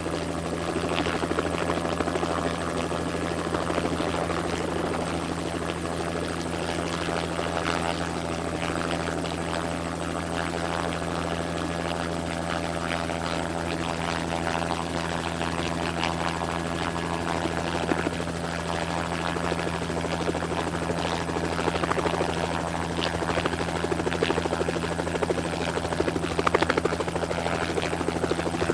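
Helicopter sound effect running steadily: an unchanging low drone with a noisy wash above it.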